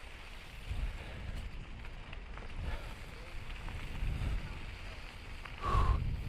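Wind buffeting a moving mountain biker's camera microphone, an uneven low rumble that swells and fades over a steady hiss. A brief higher note sounds near the end.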